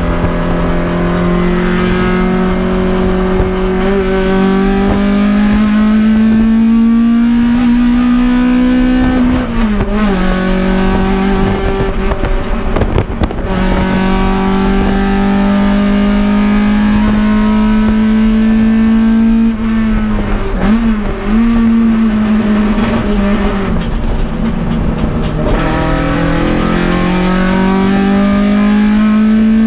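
Toyota AE86 Corolla's 4A-GE twin-cam four-cylinder engine running hard on track. The revs climb steadily for several seconds at a time, then fall sharply with brief wavering dips about ten seconds in and again around twenty-one and twenty-five seconds, before climbing again.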